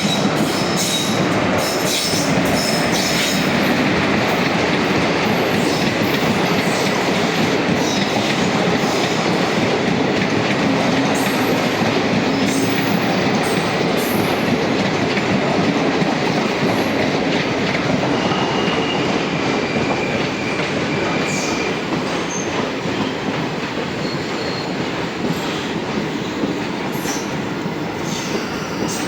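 A train running along the track close by: a steady, loud rumble of wheels on rail with sharp clicks from the rail joints, and brief high wheel squeals in the second half.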